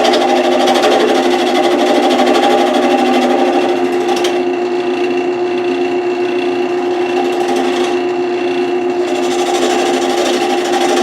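Wood lathe running with a steady motor hum while a turning tool cuts the spinning wood blank with a scraping hiss. The hiss of the cut eases off from about four seconds in and comes back about five seconds later.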